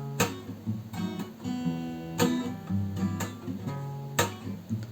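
Acoustic guitar strummed in a slow, steady rhythm, a chord stroke about once a second, playing the instrumental bars between sung lines.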